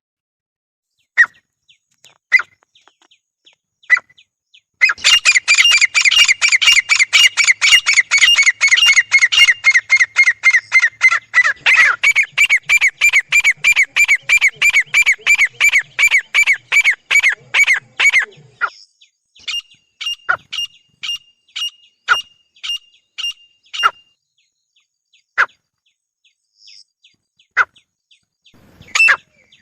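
Grey francolin pair calling: a few single call notes, then from about five seconds in a loud, fast run of repeated calls from both birds overlapping for some thirteen seconds. The calls then slow to evenly spaced notes about two a second, with scattered single notes near the end.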